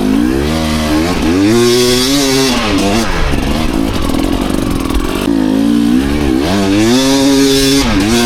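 Enduro dirt bike engine revving as the bike pulls away and rides. Its pitch climbs and drops several times: a rise about a second and a half in, then a longer climb over the last three seconds.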